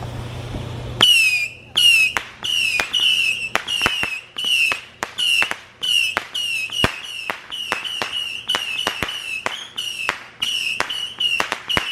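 Two Saturn missile batteries firing together: a rapid string of shots at two or three a second, each a short, slightly falling whistle with sharp pops in between, starting about a second in.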